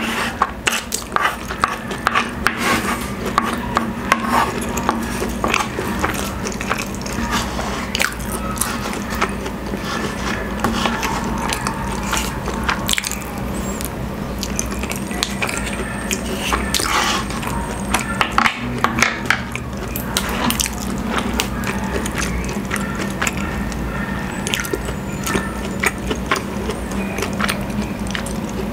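Close-miked eating: chewing and wet mouth sounds of someone eating rice in sauce, with many small clicks and scrapes of wooden spoons on a wooden plate.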